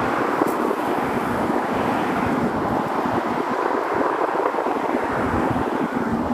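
Wind buffeting the microphone, with uneven low rumbles over a steady rushing noise.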